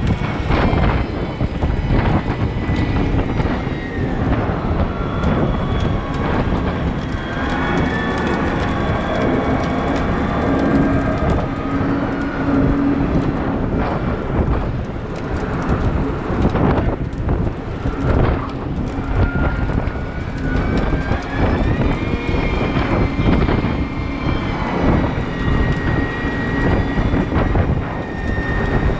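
Cat 972M XE wheel loader working hard: its diesel engine runs loud under load, with a whine that rises and falls as it works and repeated knocks and clatters.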